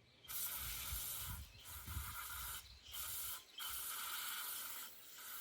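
Pressurised spray hissing in about five bursts with short breaks between them.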